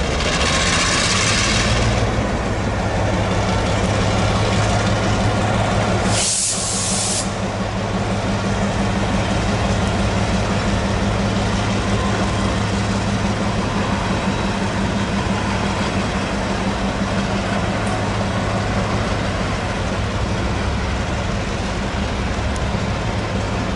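A freight train passing slowly, hauled by locomotives and followed by boxcars. It makes a steady hum and wheel rumble, with two short bursts of air hiss: one in the first two seconds and one about six seconds in.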